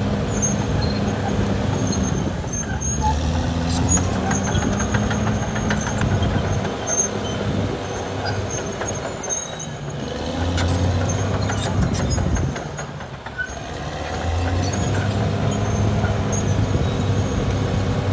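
Caterpillar D6R XL bulldozer's diesel engine running hard while it works, its pitch and load rising and falling, with occasional metallic knocks from the machine. The engine eases off briefly twice, about ten and thirteen seconds in, then pulls again.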